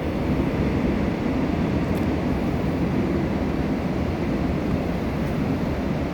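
Busan Metro Line 1 new-model train running between stations, heard from inside the car: a steady low rumble of wheels and running gear.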